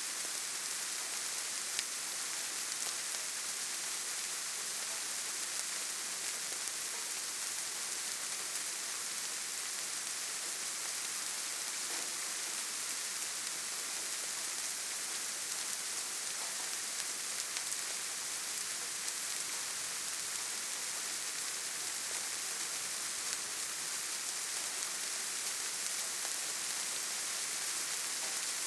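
Steady rainfall, an even hiss strongest in the high range, with faint scattered drop patters and no rise or fall in intensity.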